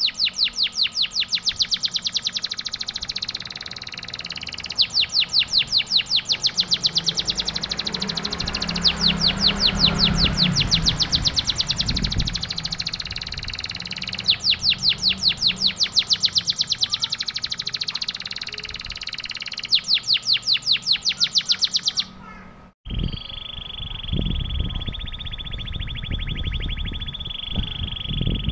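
Domestic canary singing long, very fast trills of repeated high notes in bouts of several seconds with short pauses between. About 22 s in the sound cuts out briefly and resumes as a more even, steady rolling trill.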